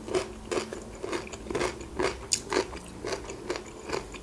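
Close-miked chewing of a mouthful of sweet corn kernels with the mouth closed: soft, wet crunches at a steady pace of about two or three a second.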